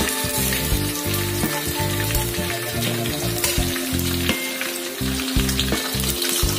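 Raw eggs sizzling as they drop into hot oil in a wok with frying shallots, garlic, chilli and tomato, with a few sharp clicks along the way. Background music with held notes plays throughout.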